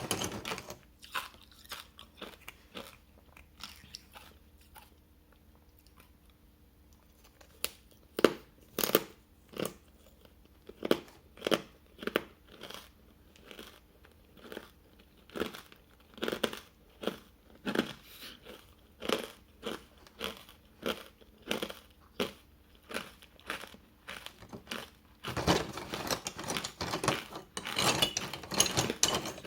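Hard ice cubes dusted with matcha powder being bitten and chewed close to the microphone: sharp crunches about one to two a second, thinning out for a few seconds after the start and turning into a dense run of crunching near the end.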